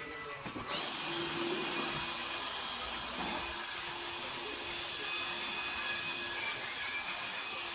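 Vacuum cleaner, of the kind used in car detailing, starting suddenly less than a second in and then running with a steady hiss and whine.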